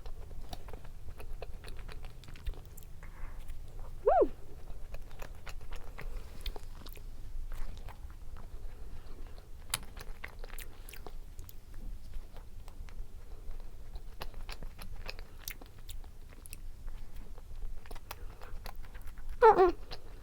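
Close-miked eating of an ice cream sandwich of soft sponge cake and strawberry-chocolate ice cream: steady chewing with wet mouth clicks and lip smacks. A short falling vocal sound about four seconds in and again near the end.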